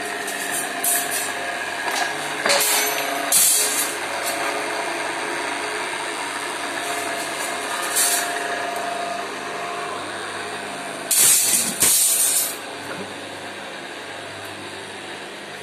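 A workshop machine running steadily, with short hisses of compressed air about two and a half, three and a half and eight seconds in, and a longer double hiss about eleven to twelve seconds in.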